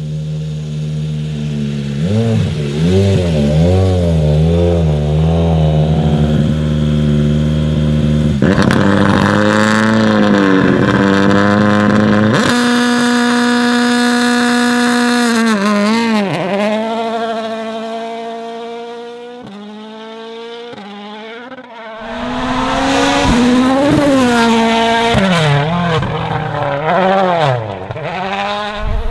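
Toyota Yaris WRC rally car's turbocharged four-cylinder engine at full attack, revs rising and falling again and again through gear changes. It eases away and goes quieter about two-thirds of the way through, then comes back loud for another hard run near the end.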